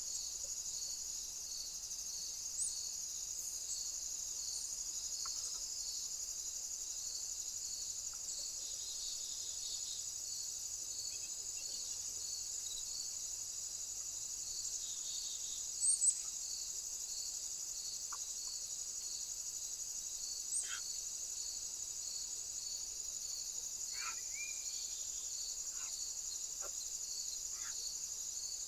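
Insects calling: a steady high buzz with a regular, evenly spaced chirping pulse beneath it. Brief bird chirps and a few short falling calls come now and then, one louder chirp about halfway through.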